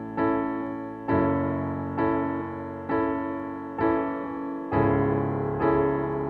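Soft background piano music: slow chords struck about once a second, each ringing out and fading before the next.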